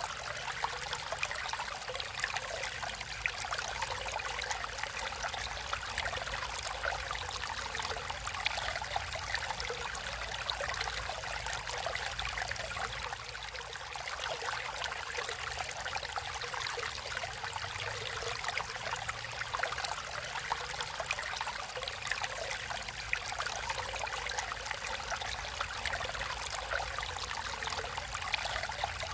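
Water in a natural stream, flowing and trickling steadily.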